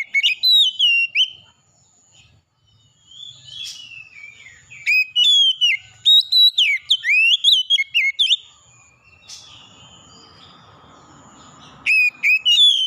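Songbird singing loud, rapid phrases of varied whistled notes that slide up and down, in three bursts of song with short pauses between.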